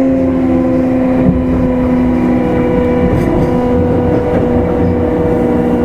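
Kintetsu 5200-series electric train heard from inside its motor car while running: a steady whine from the traction motors and gears that sinks slowly in pitch, over the low rumble of wheels on rail.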